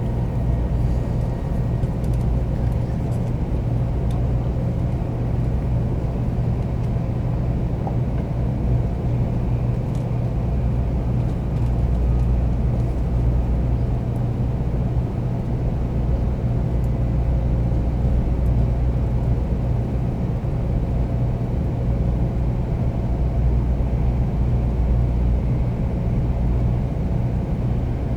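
Cabin running noise of a Tokaido Shinkansen 300 series train at speed, heard from inside a passenger car: a steady low rumble with a faint steady hum above it.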